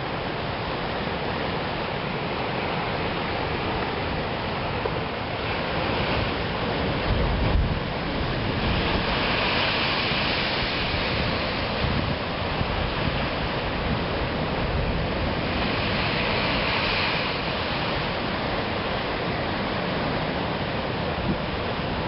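Ocean surf breaking and washing against the shore: a steady rush that swells louder about ten seconds in and again about sixteen seconds in, with some wind rumbling on the microphone.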